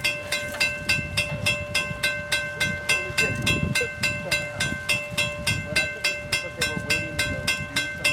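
Railroad grade-crossing bell ringing in rapid, even strokes, about five a second, with a low rumble underneath.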